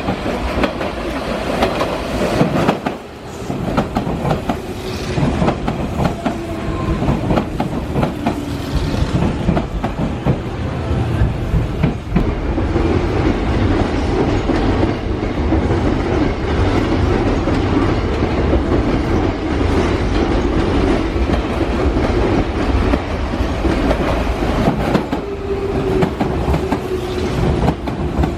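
Hanshin 5000-series electric commuter train running on the rails, its wheels clattering over rail joints, with a humming tone that slides slowly down in pitch near the end.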